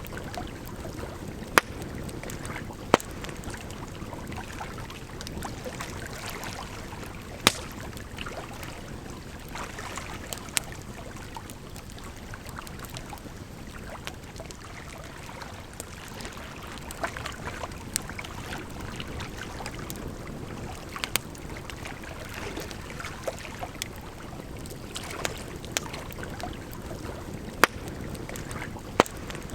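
Campfire crackling over a steady rush of flowing water, with sharp wood pops every few seconds, the loudest a little after 1 s, near 3 s, 7 s, 21 s and 27 s in.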